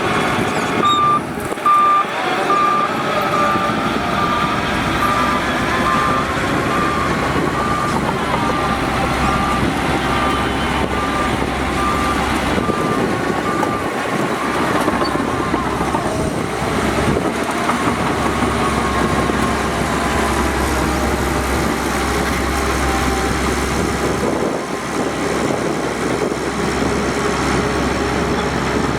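Heavy diesel earthmoving machinery, a bulldozer and dump trucks, running under load. For about the first half a reversing alarm beeps steadily, then stops.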